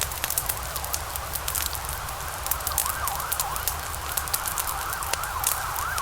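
Logs burning in a fireplace, crackling and popping irregularly over a low rumble of flame. From about halfway, a faint high tone warbles quickly up and down beneath the crackle.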